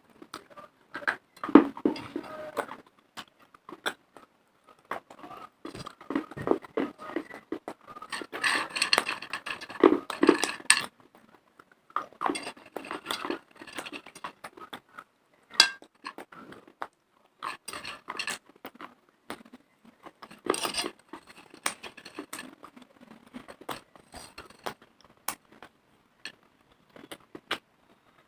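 Close-miked biting and chewing of pieces of dry clay: sharp, crackly crunches in irregular clusters with short pauses between them.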